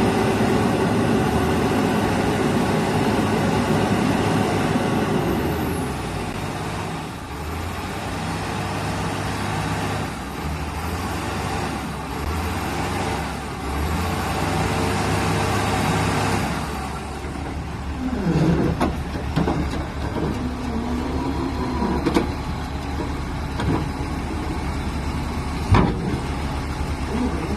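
Heavy truck engine working hard under load, its level rising and easing several times, then dropping to a lower, steady run for the last ten seconds or so, with a few squeaks and a sharp knock near the end.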